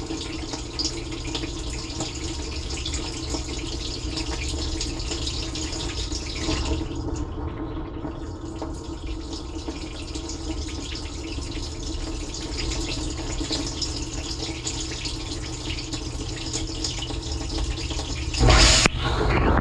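Water rushing and spraying inside a running dishwasher, heard from inside the tub, over the steady hum of the dishwasher's pump motor. Near the end there is a sudden louder surge of water.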